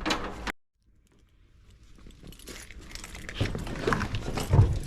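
Hand-handling noise: rustling with scattered clicks and a few knocks as objects are moved around, the loudest knock near the end. About half a second in there is a brief drop to dead silence.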